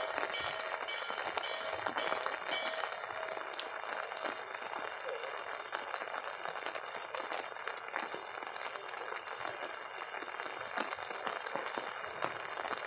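Steady rain pattering with a crackling hiss of many fine drop clicks.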